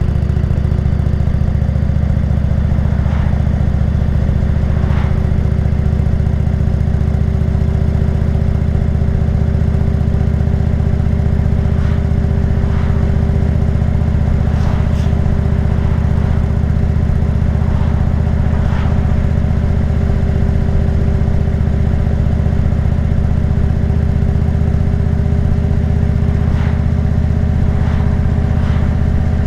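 Motorcycle engine running at a steady speed while cruising, its pitch unchanging, with a few faint brief clicks.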